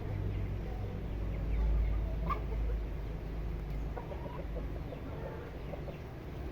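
Chickens clucking with scattered short calls, one clearer, higher call about two seconds in, over a steady low rumble.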